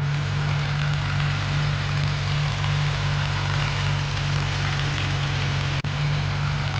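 Tractor diesel engine running steadily at a constant speed, with a low drone and a rough clatter over it. The sound breaks for an instant about six seconds in.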